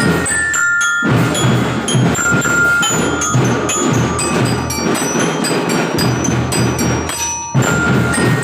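Children's drum band playing a tune: a bright, bell-like melody from glockenspiel-type bell lyras over drums, with two brief lulls between phrases, one about a second in and one near the end.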